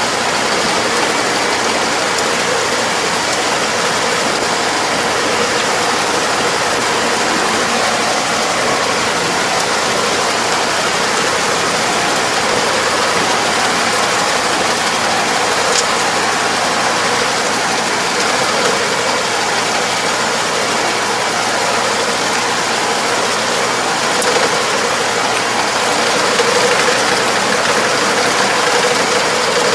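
Farm machine's engine running steadily under load, with a constant mechanical clatter.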